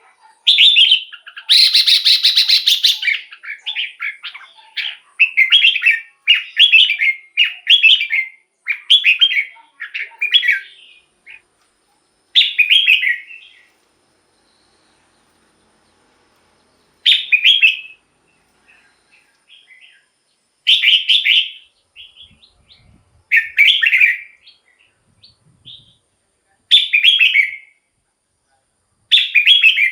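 Red-whiskered bulbul singing loud, short warbled phrases, close together for about the first ten seconds, then single phrases every three or four seconds with silence between.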